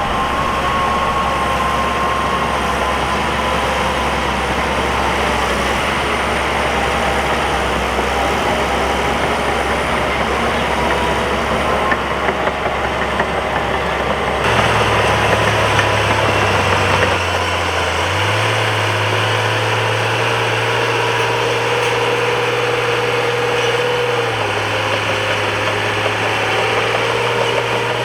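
Bulldozer's diesel engine running steadily under work, the sound changing abruptly about halfway through.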